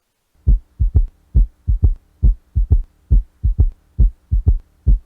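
Recorded heart sounds with an S3 gallop: low thuds starting about half a second in, about six beats, each a first heart sound followed by the second heart sound with a third sound close behind it, in a 'Kentucky' rhythm. The S3 is the early-diastolic sound of rapid filling striking the left ventricle's wall, typical of congestive heart failure.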